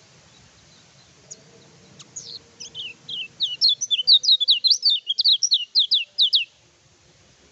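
Kecial kuning (a white-eye) singing: a few scattered chirps, then a fast run of loud, high, downward-sliding notes, about five a second, that stops suddenly about six and a half seconds in.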